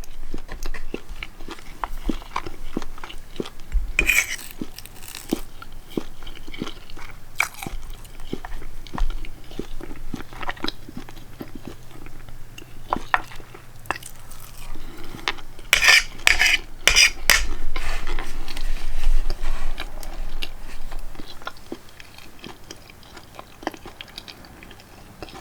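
A person chewing and eating food close to the microphone, with many small mouth clicks and a few louder bursts about four seconds in and again around sixteen to seventeen seconds; it quietens near the end.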